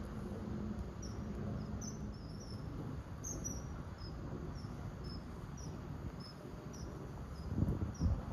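A small bird giving short, high chirps about twice a second over a steady low background rumble, with a couple of low thumps near the end.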